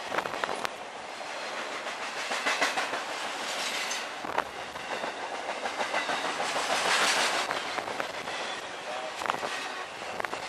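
Intermodal freight train of highway trailers on flatcars passing close by: steel wheels rumbling on the rails, with sharp clicks as the wheels cross rail joints. The rushing noise swells about two-thirds of the way through.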